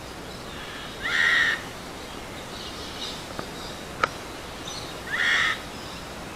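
A bird gives two short squawking calls, each about half a second long, about four seconds apart, with a single sharp click between them.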